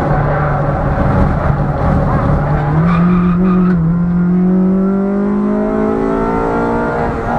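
Ford Fiesta Mk5 Zetec S four-cylinder engine under load on track. The engine note holds fairly steady for about three seconds, then rises steadily under acceleration for about four seconds before dropping near the end at a gear change.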